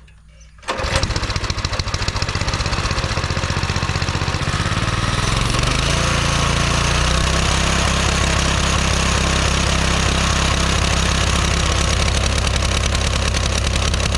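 Coleman mini bike engine, a small single-cylinder four-stroke, catching about a second in and running, its speed rising a few seconds later and then holding steady. It runs all right on fresh oil and gas dosed with Seafoam.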